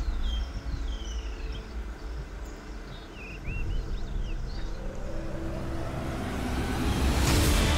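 A safari vehicle's engine giving a steady low rumble, with short high chirps in the first half. A rushing noise swells over the last few seconds and peaks just before the end.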